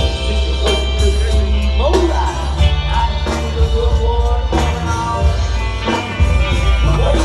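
A live band playing rock-and-roll with a male singer, bass notes and a steady drum beat.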